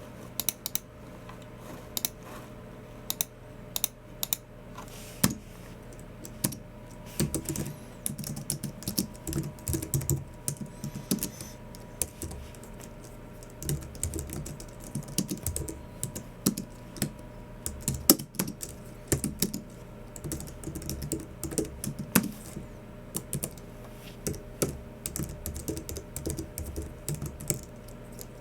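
Typing on a Logicool MX Keys Mini low-profile keyboard: scattered single key clicks at first, then quick runs of keystrokes broken by short pauses from about seven seconds in.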